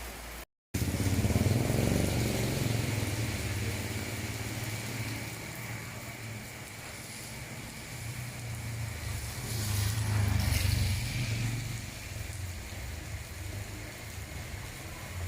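Motor vehicle engine running close by, louder about a second in and again around ten seconds, over a steady hiss of rain. A brief dropout to silence comes just after the start.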